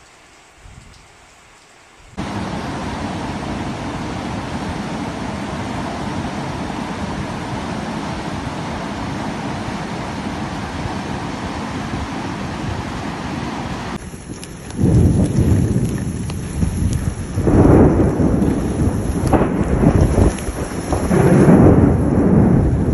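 Thunderstorm: heavy rain falls in a steady hiss that starts abruptly about two seconds in. From about fourteen seconds it changes to loud, irregular low rumbling in gusts.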